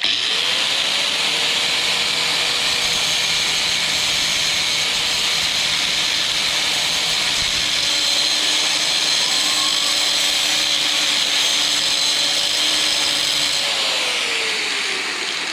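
Porter Cable PC750AG 4.5-inch, 7.5-amp angle grinder with a cutoff wheel cutting steel: a steady hiss of the wheel on the metal over the motor's whine. The motor's pitch rises in the first moment and drops as it runs down near the end.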